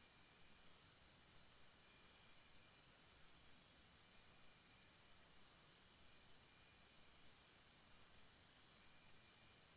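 Near silence with faint birdsong in the background: a steady run of short, high chirps repeating several times a second.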